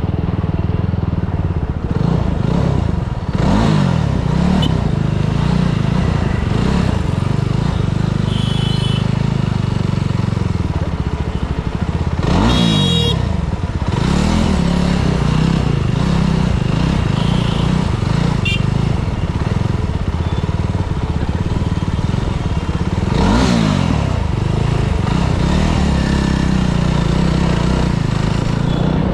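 Motorcycle engine running at low speed in slow traffic, with a brief rise and fall in revs about three times.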